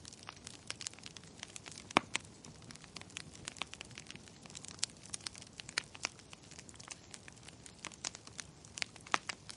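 Wood fire crackling, with irregular sharp pops and snaps over a faint hiss; the loudest pop comes about two seconds in.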